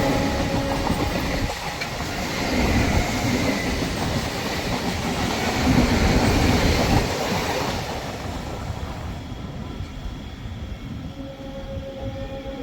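Train running past on a sharp curve, its wheels clattering over the rail joints, loudest around six to seven seconds in and then fading away. A steady horn note cuts off about a second and a half in.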